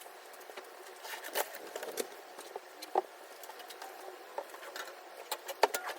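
Faint scattered clicks, light knocks and rustling as small things and clothes are handled and moved about.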